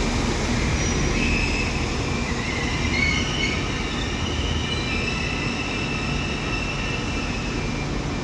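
Northern class 195 diesel multiple unit running into a terminus platform: a steady low rumble with high-pitched wheel squeal wavering over it through most of the run.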